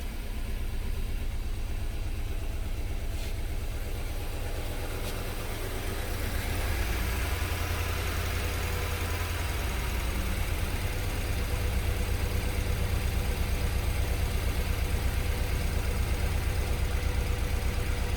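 Car engine idling with a misfire on cylinder 1, a steady low pulsing that gets a little louder about six seconds in.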